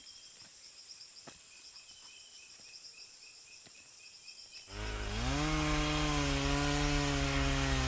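Quiet rainforest with faint steady insect calls. About two-thirds of the way in, a chainsaw starts abruptly; its pitch dips and then settles into a steady run.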